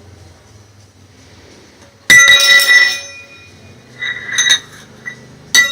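A hard object struck three times, each strike ringing out in a clear high metallic or glassy tone that dies away within about a second: the first about two seconds in, a weaker one about four seconds in, and a loud one just before the end.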